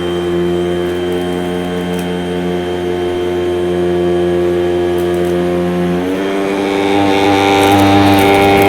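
Vacuum cleaner motor running steadily with an even hum. About six seconds in its pitch rises a little and a rushing hiss of air comes in.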